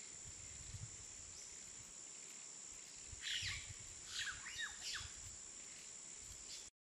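Birds calling outdoors: short chirps that slide down in pitch, in two small clusters about three seconds in and again between four and five seconds.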